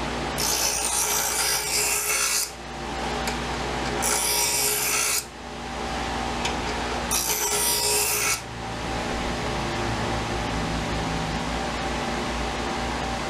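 Steel knife blade ground against an abrasive in three strokes of one to two seconds each, each starting and stopping abruptly, over a steady machine hum. The edge is being taken down to even it out and remove a bad nick.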